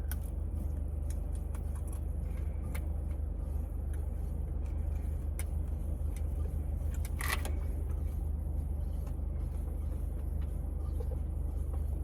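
Steady low mechanical hum, like a vehicle idling, with scattered small clicks and a brief rustle about seven seconds in, as small items are handled.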